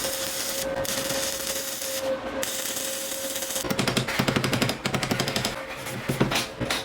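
A power tool running with a steady high whine and a hiss. For a second or so in the middle there is a rapid rattling chatter, then a few sharp clicks near the end.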